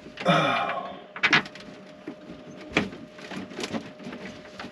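A short scraping rustle, then scattered light clicks and knocks: a screw and screwdriver being handled and fitted against a wooden wall panel.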